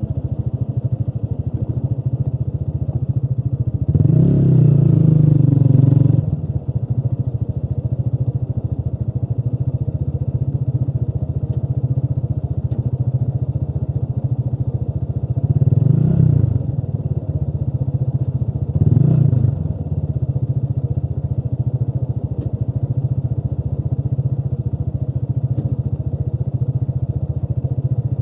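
Motorcycle engine running steadily while riding, with a brief burst of throttle about four seconds in and two shorter ones past the middle.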